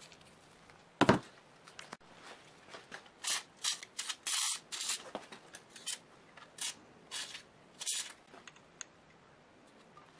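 A single sharp knock, then a run of short, hissy scraping or rubbing strokes for several seconds.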